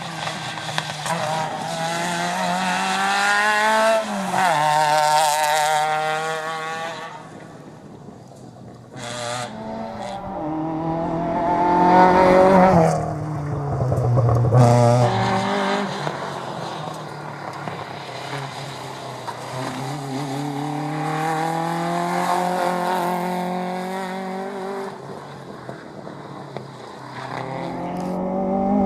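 Rally car engines accelerating hard through the gears, the note climbing and dropping at each shift and lift, loudest as a car passes close about halfway through, with a sharp crack about nine seconds in.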